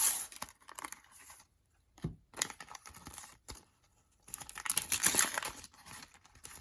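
Sticker packets being torn open by hand, their wrappers crinkling, in several irregular bursts with short pauses between. The loudest burst comes at the very start and a longer one comes past the middle.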